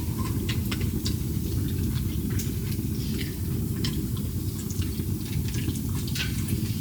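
Scattered small crackles and clicks, irregular, over a steady low rumble.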